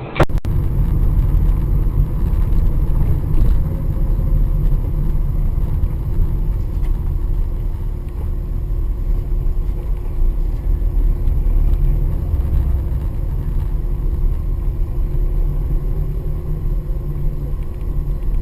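Steady low rumble of a car being driven: engine and road noise, with no crash or impact.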